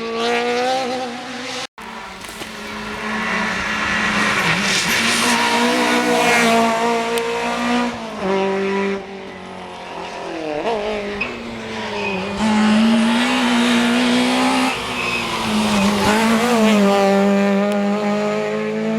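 Rally car engines at racing speed, revving hard and falling back as they change gear and brake for corners, with tyre squeal. A brief break about two seconds in, where the sound cuts out and restarts.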